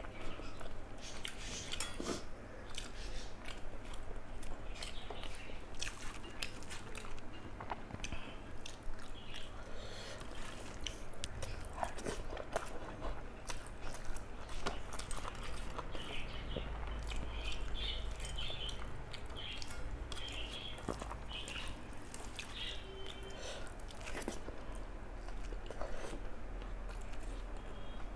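Close-up eating sounds of rice and fish curry being chewed: a steady stream of small wet mouth clicks and smacks.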